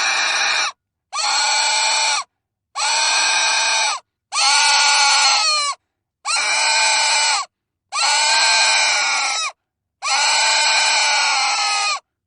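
Pig squealing: seven high screams, each a second or more long, with short breaks between them.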